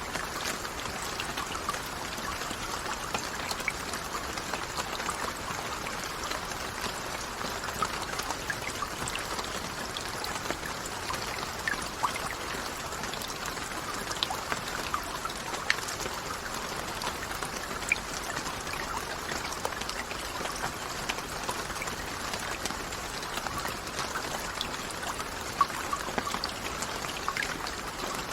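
Steady rain falling, an even hiss with many individual drops ticking sharply over it.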